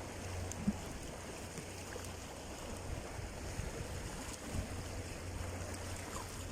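Steady rushing wind noise on the microphone with a low rumble, as on a moving bicycle.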